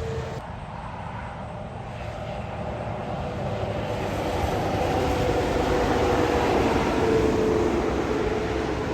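Heavy truck approaching and going by, its engine and tyre noise building to a peak about seven seconds in, then easing slightly.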